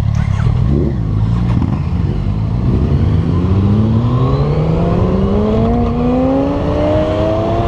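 Motorcycle engine pulling away and accelerating, its pitch rising steadily in one long pull over the last several seconds.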